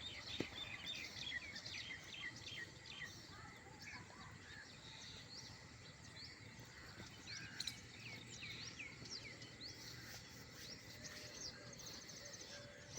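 Many small birds chirping, a dense chatter of short calls over a faint steady background hiss.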